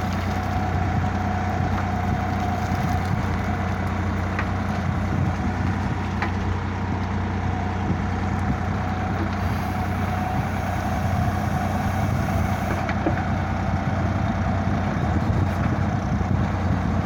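Sonalika DI 47 tractor's diesel engine running steadily, with a steady higher whine above the engine hum.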